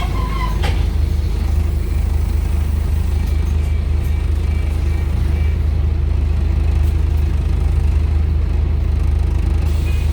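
Scania DC9 five-cylinder diesel engine of a Scania N230UD double-decker bus running under way, a steady low drone heard from inside the bus, with a few light clicks about half a second in.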